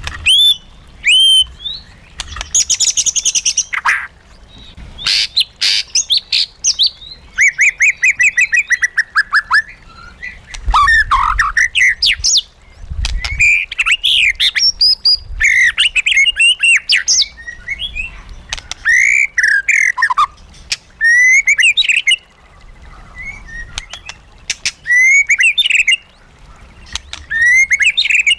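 White-rumped shama singing a long, varied song: loud whistled phrases of rapid trills, sweeping notes and chattering, one after another with short pauses.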